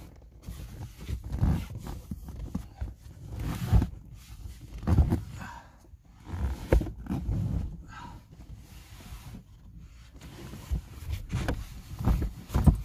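Irregular bumps, knocks and rustling of camping gear being handled and unfolded in the cramped cabin of a small car.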